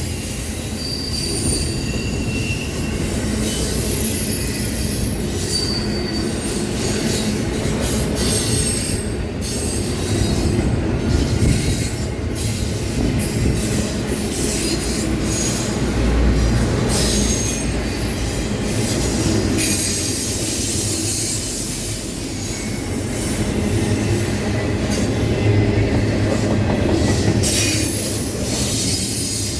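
Intermodal freight cars of a very long train rolling past on a superelevated curve: a steady low rumble of wheels on rail, with short, high-pitched wheel-flange squeals that come and go as the wheels grind through the curve.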